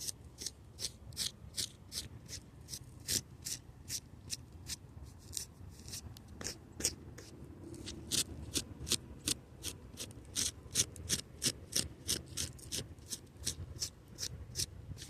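Hand scratching hard at a fabric hoodie to scrape off stuck twigs: a quick, steady run of scratching strokes, about four a second.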